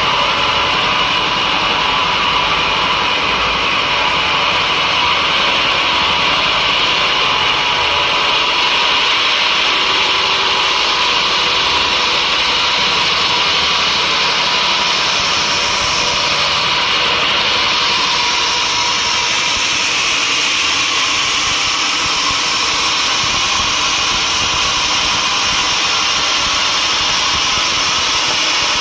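Sawmill saw running steadily: a loud, continuous machine noise with no breaks.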